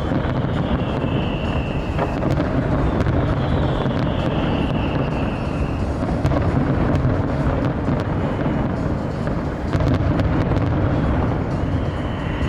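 Fireworks display: a continuous low rumble of bursts with a few sharper bangs, and two long falling whistles in the first half.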